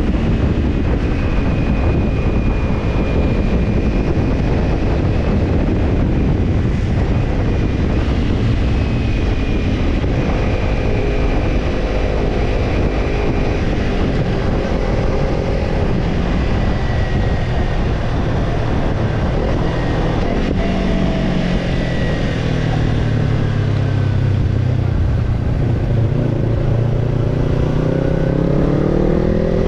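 Kawasaki Ninja 250 parallel-twin engine through a BEET Nassert Evolution Type II titanium slip-on muffler, heard while riding with heavy wind rush on the microphone. About two-thirds of the way through the engine note drops as the bike slows, then rises steadily as it accelerates near the end.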